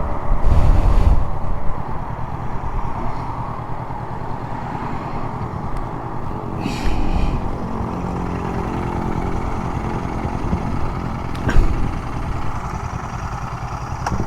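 Motorcycle engine running steadily at highway cruising speed, with wind rushing past.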